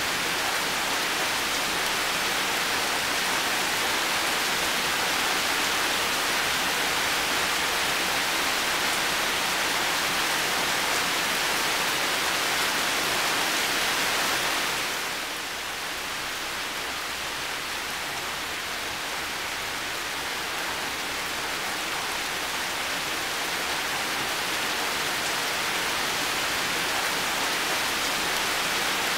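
Heavy rain falling steadily as a dense, even hiss. About halfway through it softens slightly, then gradually builds back up.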